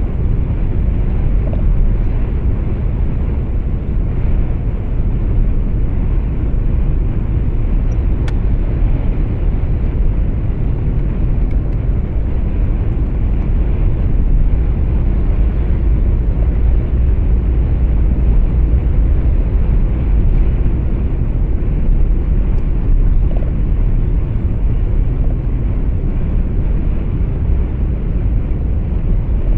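Truck driving, heard from inside the cab: a steady low rumble of engine and road noise.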